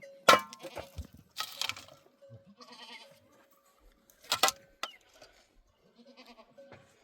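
Flock of goats and sheep bleating, with a few loud short calls standing out.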